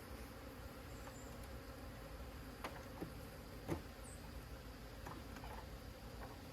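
Honeybees buzzing around an open hive, a faint steady hum, with three short knocks near the middle, the last the loudest.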